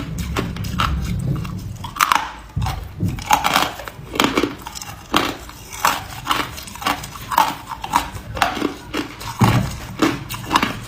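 A person biting and chewing ice, with sharp, brittle crunches coming about once a second.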